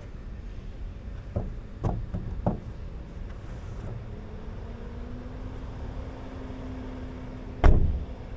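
Inside a Tesla Model Y's cabin: a steady low rumble, three light knocks about two seconds in, a faint steady hum from about halfway, and one loud thump near the end.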